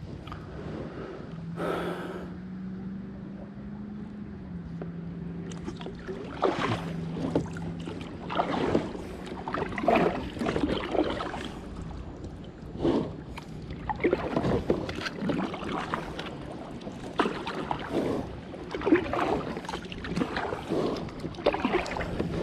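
Kayak paddle strokes dipping and splashing in the water in a steady rhythm, about one stroke a second. A low steady hum runs under the first several seconds.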